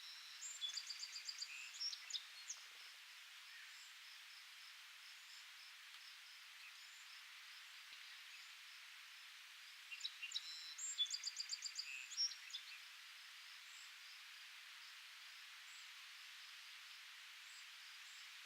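A songbird singing two phrases of rapid, high trilled notes, one at the start and one about ten seconds later, over a faint steady high hiss.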